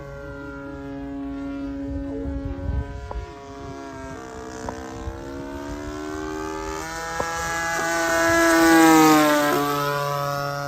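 Small gasoline engine of a 20cc RC model airplane running with its propeller, the pitch shifting with throttle, then getting louder and dropping sharply in pitch as it passes close by about nine seconds in.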